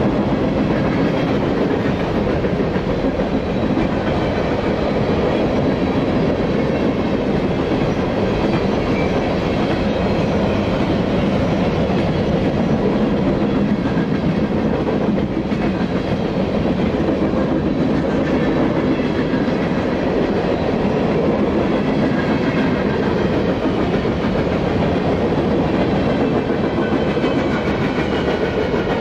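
A long freight train's cars rolling past at steady speed, first refrigerated boxcars and then centerbeam flatcars: steel wheels on the rails make a continuous rumble with clickety-clack over the rail joints.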